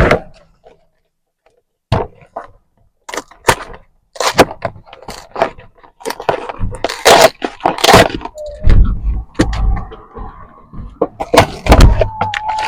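Lunch items and their packaging being handled and put into a lunchbox: a run of irregular clicks, knocks and crinkles, with some low rubbing thumps partway through. A steady high tone comes in near the end.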